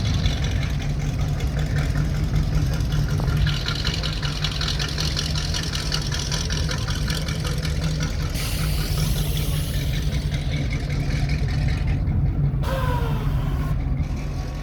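Classic car engines running with a steady low rumble, as cars idle and move past in a parade.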